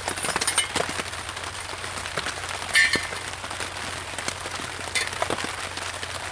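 Rain pattering on a tarp tent overhead, a steady hiss with many scattered individual drop ticks. A short, louder sound stands out about three seconds in.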